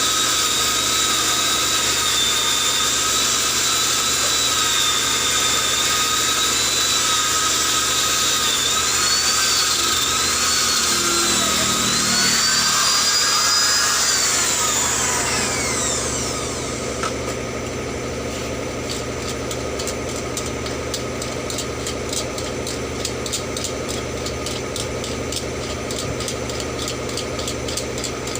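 A high-speed power tool runs with a steady high whine whose pitch wavers and dips under load. About fifteen seconds in it winds down and stops, leaving a lower steady hum with fast faint ticking.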